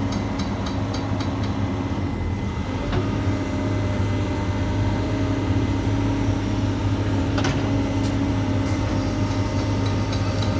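Diesel engine of a piece of heavy equipment running steadily at idle, with a steady higher whine joining about three seconds in. Light, quick ticking is heard at the start and again near the end.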